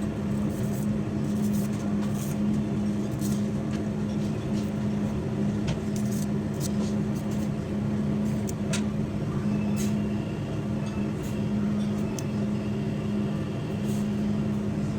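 A steady machine hum with one constant low tone, with a few light clicks and taps scattered over it.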